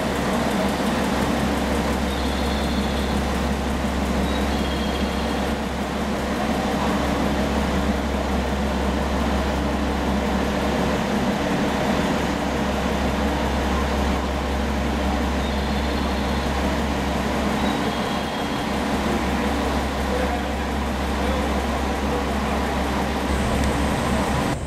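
Steady low hum and rumble of stationary trains idling in a station, with a few faint high tones now and then.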